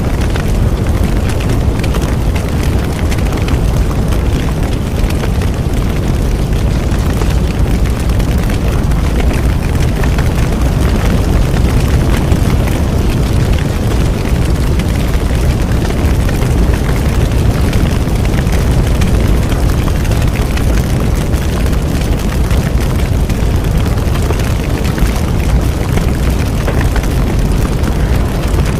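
Bonfire burning steadily: a deep, constant rush of flames with many small crackles and pops throughout.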